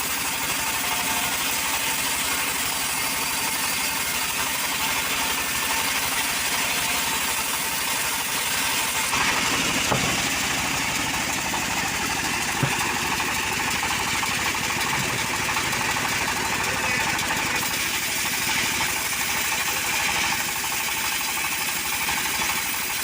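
Engine-driven power saw running steadily at a constant level.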